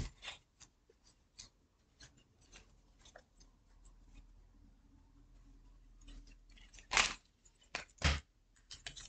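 Faint scattered clicks and light rustling of handling, with two louder short rustles about seven and eight seconds in.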